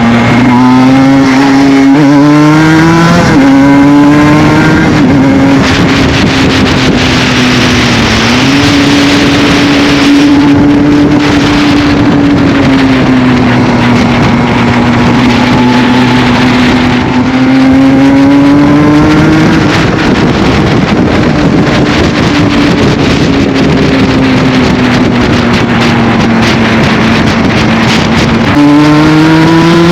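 Aprilia RS 125's single-cylinder two-stroke engine with an Arrow full exhaust, under way. It revs up through quick gear changes in the first few seconds, then runs at fairly steady revs with slow rises and falls, and pulls up sharply again near the end.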